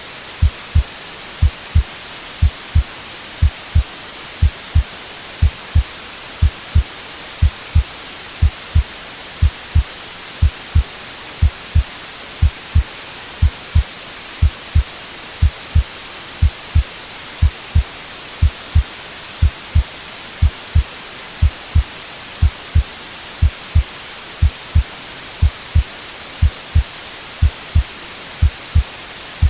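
Slow heartbeat: a low double thump, lub-dub, about once a second and evenly paced, over a steady white-noise hiss.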